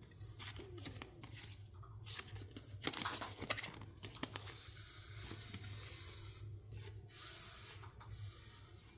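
Packaging being handled and torn open by hand: scattered crinkles and clicks, then a longer tearing rustle partway through.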